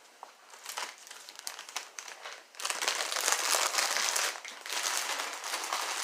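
Crinkly plastic chip bag being handled and rummaged, a few scattered crackles at first, then continuous loud crinkling from about two and a half seconds in.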